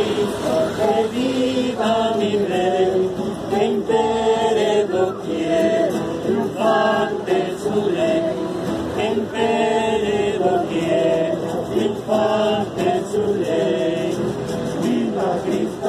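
Several voices singing a hymn together, a slow, chant-like melody with notes held for about a second each.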